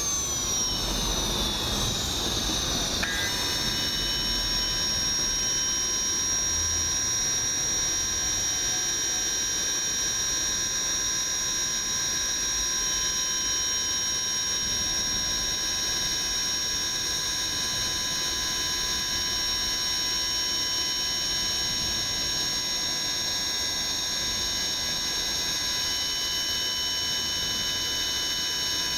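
JB130 small turbojet engine running on a test bench: its whine falls in pitch as it spools down for the first few seconds, then settles about three seconds in into a steady high whine over a constant hiss.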